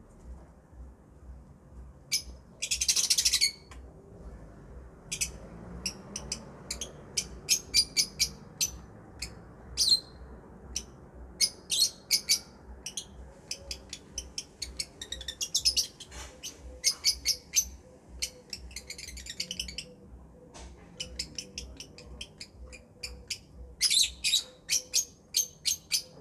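Lovebirds chirping: many short, sharp high-pitched chirps in irregular runs, with a longer harsh chatter about three seconds in and a quicker run of chirps near the end.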